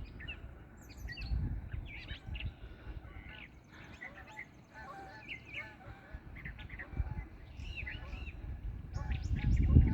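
Several wild birds chirping and calling with short, scattered notes, over a low rumble that gets much louder near the end.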